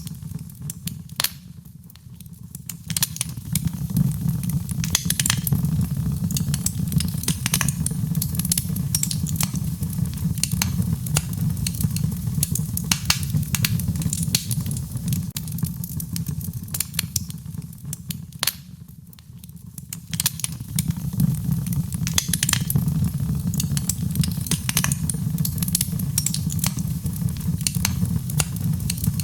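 Wood fire in a fireplace crackling, with frequent sharp pops and snaps over a steady low rumble. The rumble fades briefly twice, about two seconds in and again about two-thirds of the way through.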